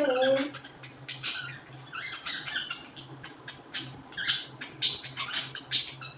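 Pet birds chirping and squawking in a rapid series of short, high-pitched calls.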